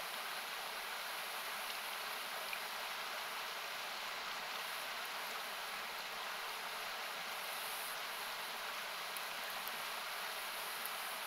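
Steady rushing hiss of a nearby river or small waterfall, thinned by equaliser cuts. A few faint campfire crackles sound over it, one about two and a half seconds in and a few more near the end.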